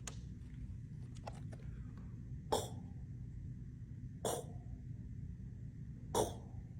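A man's voice making a short guttural consonant sound from the throat, three times, about two seconds apart: an isolated throat sound of the Heiltsuk alphabet said alone, not as a word.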